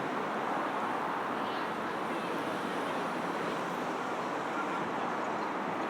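Steady wash of passing road traffic, tyre and engine noise blended together with no single vehicle standing out.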